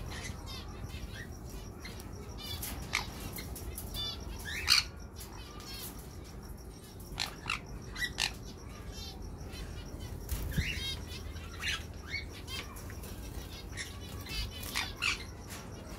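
Aviary birds chirping and chattering: many short high calls and quick warbling runs, with louder sharp calls standing out, the loudest about five seconds in.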